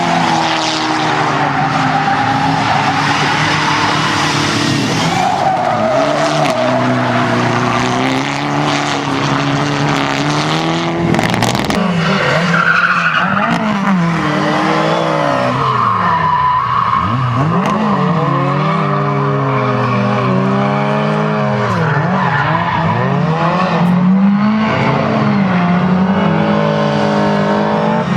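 Car engine revving, its pitch climbing and dropping again and again, with tyres squealing as the car slides through corners.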